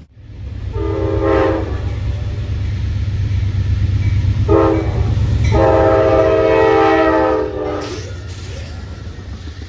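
Locomotive air horn sounding three blasts in a chord of several notes, a medium one, a short one and a long one, over the steady rumble of a passing train. At the end of the long blast the horn's pitch drops as it goes by.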